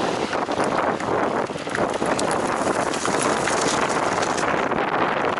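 Mountain bikes setting off at a race start: knobby tyres rolling over dirt and gravel, with rattles and clicks from the bikes and wind noise on the microphone.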